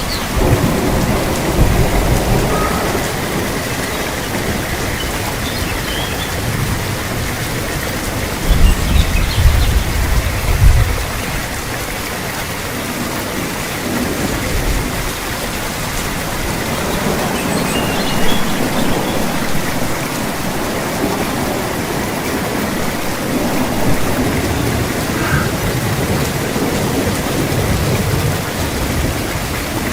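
Steady rain pattering on a surface, with low rumbles of thunder. The loudest roll comes about nine to eleven seconds in.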